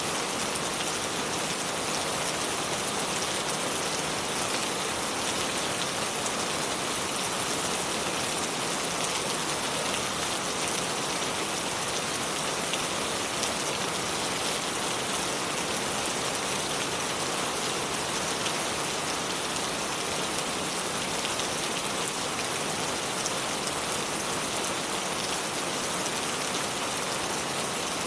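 Shallow river water flowing over stones: a steady, even rushing with fine splashing.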